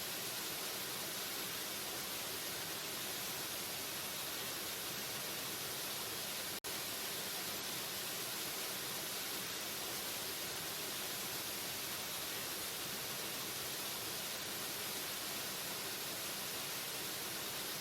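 Waterfall running in a steady, hissing rush of water with no change in level. The sound cuts out for a split second about six and a half seconds in, then resumes as before.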